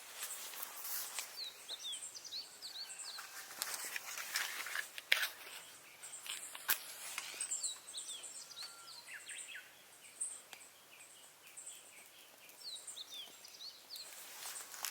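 Small birds chirping in repeated runs of short, falling notes, over scattered crackles and sharp snaps; the loudest snap comes about five seconds in.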